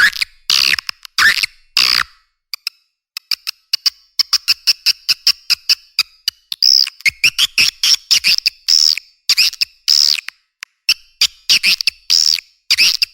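Swiftlet call track ('suara panggil walet'): rapid trains of dry clicks mixed with short, sharp twittering chirps, repeating loudly and densely, with chirps that sweep downward in pitch growing more frequent past the middle. A recorded swiftlet lure call, played to draw swiftlets into a nest house.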